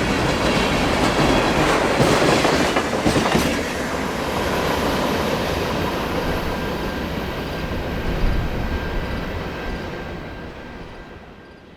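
A train rolling past on the rails with the wheels clattering over the track, loud for the first few seconds and then steadily fading away.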